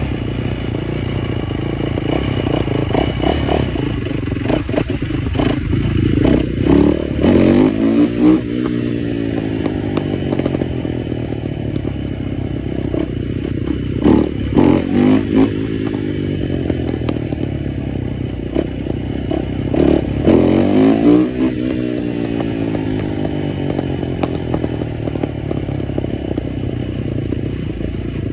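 Small motorbike engine running throughout, surging louder three times as its pitch climbs and drops back, at about a quarter, half and three-quarters of the way through.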